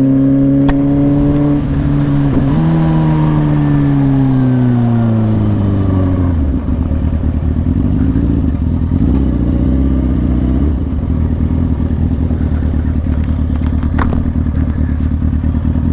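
Sport motorcycle's engine held at steady revs, dipping briefly about two seconds in, then falling in pitch over about four seconds as the bike slows, and settling into a low, uneven rumble near idle.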